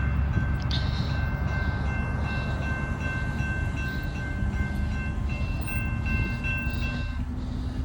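CSX train rolling past with a steady low rumble. A few thin, steady high-pitched tones ring over it until near the end.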